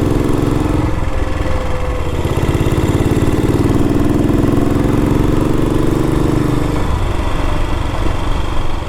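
1962 Matchless G80CS single-cylinder engine running under way as the motorcycle is ridden, its pitch climbing slowly and then dropping about seven seconds in as the throttle eases.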